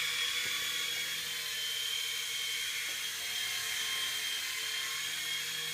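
Small electric motors and rotors of a toy remote-control helicopter (Black Ops Black Hawk) running in flight: a steady high-pitched whine.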